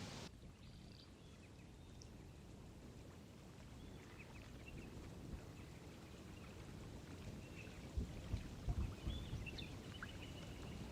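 Quiet outdoor ambience: a low steady rumble with faint, scattered short high chirps, and a few low thuds about eight seconds in.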